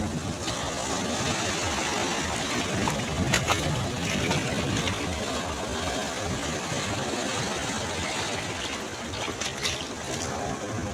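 Ocean surf washing onto a beach: a steady rush of breaking waves with a light hiss and crackle of foam.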